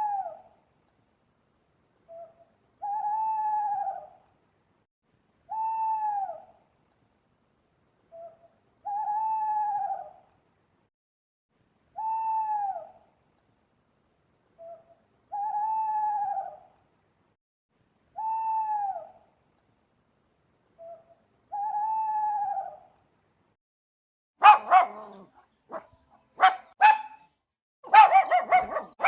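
An animal's hooting call repeated eight times, about once every three seconds. Each call is a single pitched note of about a second that falls away at the end, several with a short soft note just before. From about 24 seconds in, a dog barks in short loud bursts.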